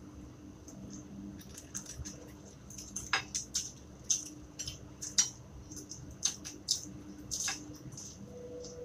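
Close-up eating sounds: irregular sharp crunches and mouth smacks from chewing raw cabbage leaves wrapped around sambal, with leaves rustling as they are picked up.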